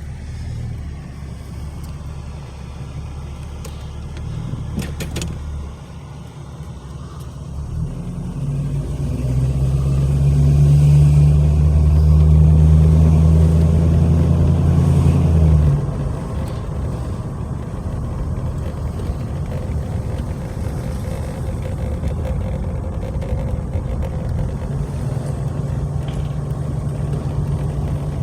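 A 1979 Chevrolet Camaro Berlinetta's engine running with a steady low hum. About a third of the way in it grows louder for several seconds, then drops back suddenly to a steady lower level.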